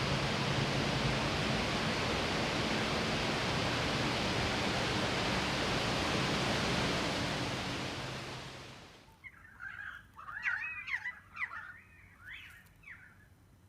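A steady rushing noise that fades away about eight seconds in, followed by a bird calling in a quick run of chattering notes that slide up and down in pitch.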